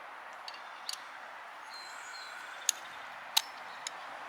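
Four short, sharp clicks of metal parts as a hand rivet gun's parts are tightened and handled, the loudest a little after three seconds in, over a steady background hiss.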